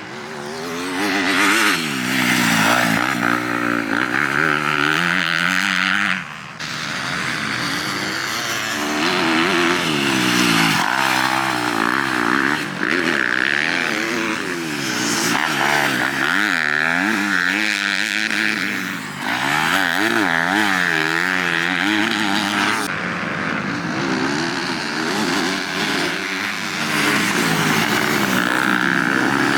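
Motocross dirt bike engine revving up and down over and over as it races, the pitch climbing and falling every second or two. The sound breaks off suddenly about six seconds in and again later before picking straight back up.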